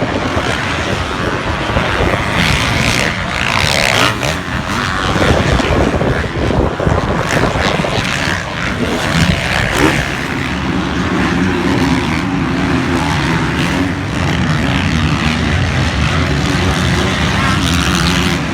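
Motocross bike engines running hard, their pitch rising and falling, settling into a steadier engine note about halfway through.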